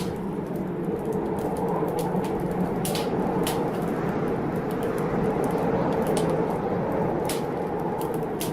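Wood fire crackling, with irregular sharp pops every second or so, over the steady rushing noise of a storm.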